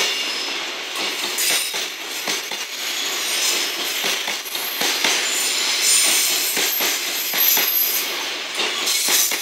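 Loaded container freight wagons rolling past, their steel wheels running over the rails with a steady rumble and an irregular string of clattering knocks.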